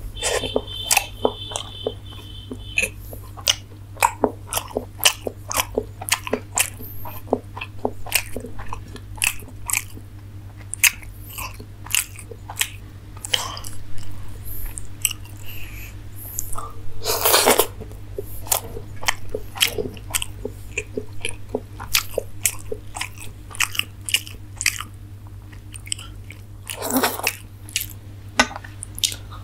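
Close-miked wet chewing and biting of soft steamed momos, a dense run of irregular mouth clicks and smacks, with two longer, louder rushes of noise about ten seconds apart, over a steady low hum.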